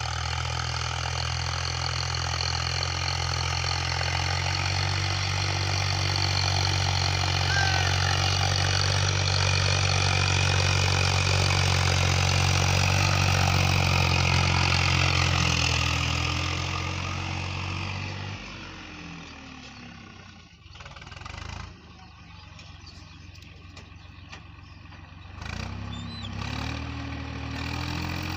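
Tractor diesel engine running steadily and loud, then falling off sharply about 18 seconds in. A couple of knocks follow, and near the end the engine picks up again, rising in pitch.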